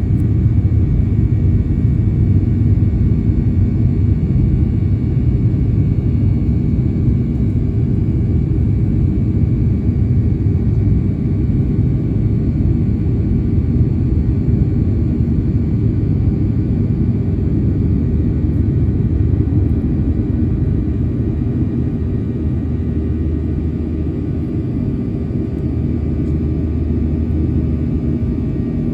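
Boeing 737-800's CFM56 jet engines heard inside the passenger cabin as a steady low rumble with a constant hum, easing slightly in the last few seconds.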